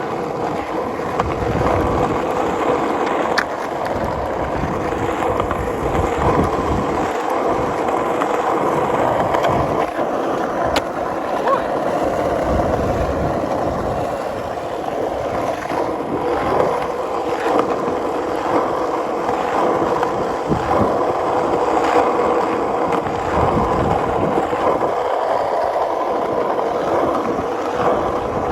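Skateboard wheels rolling continuously over a road surface: a steady gritty rumble with a faint hum running through it, and no breaks or clear impacts.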